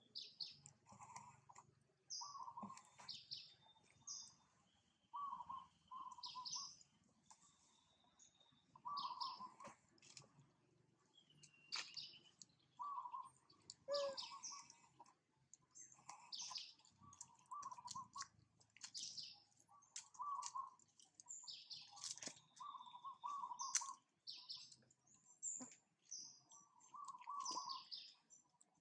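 Birds chirping and calling: short calls repeating every second or so, some lower and often in quick pairs, others high and thin, with a few faint clicks among them.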